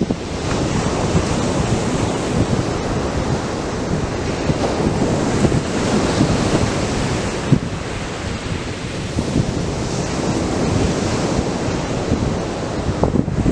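Atlantic surf breaking and washing up a sandy beach, a steady rush that swells and eases with each wave. Wind buffets the microphone now and then.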